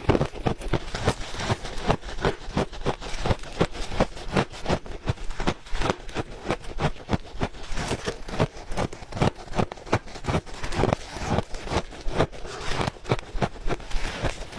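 Close-miked crunching of ice being chewed: a rapid, irregular run of sharp cracks and crunches, several a second, without a break.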